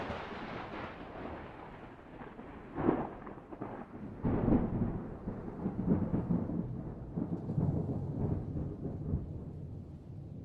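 Thunder: a sudden crack at the start, then a long rolling rumble with louder peaks about three and four and a half seconds in.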